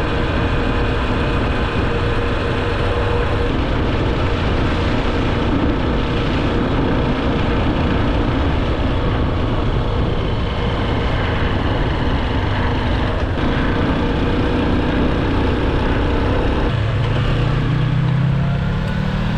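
A loud engine running steadily. About three seconds before the end, a pitched tone comes in and rises.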